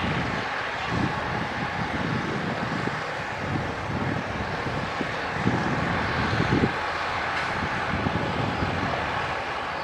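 Diesel engine of heavy earthmoving machinery running under load, with an uneven low rumble that swells briefly a little past the middle.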